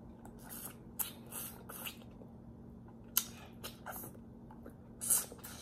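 Close-miked wet mouth sounds of a person eating with her fingers: irregular smacking and squishy chewing noises, with a sharp click about three seconds in and a louder smack near the end.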